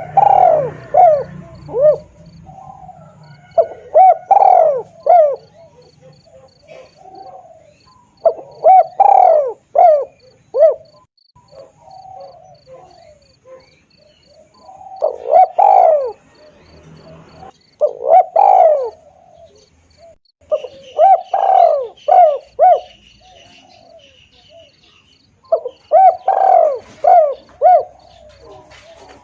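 Spotted dove (tekukur) cooing: about seven phrases a few seconds apart, each a run of several quick coo notes, played as a trapping lure call.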